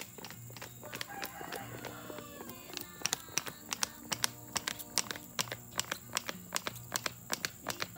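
A bird calls in a wavering, chattering run about a second in. From about three seconds on there is a steady series of sharp ticks, about three a second.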